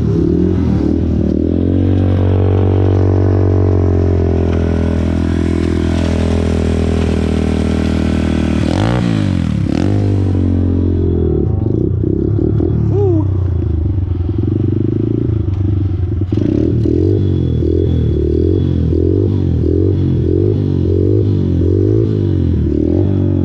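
Pit bike engine running at high revs, with a brief drop in revs about nine seconds in. After that the revs rise and fall over and over, about one and a half times a second.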